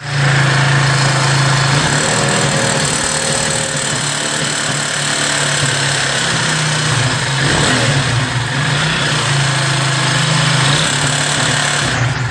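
Keeway RKV 200's single-cylinder four-stroke engine running steadily at raised speed, with a few brief dips. The owner hears a metallic noise in it, like loose rocker arms, that comes in only once the engine is warm and above about 3,500 rpm.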